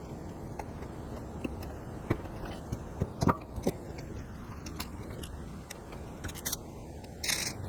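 Irregular crunching snips, clicks and scrapes of leather being hand-cut with shears, with a brief hiss about seven seconds in.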